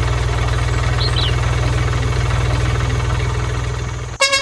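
Engine idling with a steady low rumble and a fast even pulse, cutting off abruptly near the end.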